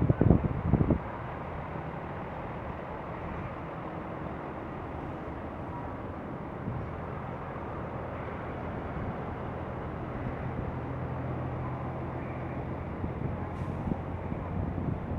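Outdoor city traffic noise, with a vehicle engine running steadily as a low drone and a few low thumps of wind on the microphone in the first second.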